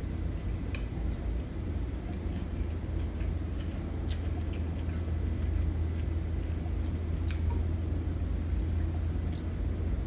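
Close-miked chewing and biting of a soft homemade taco: scattered wet mouth clicks and smacks over a steady low hum.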